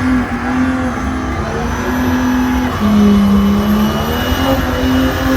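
Volvo 945's turbocharged D24 straight-six diesel held at high revs during a burnout. Its steady note dips in pitch about three seconds in and rises again a second later.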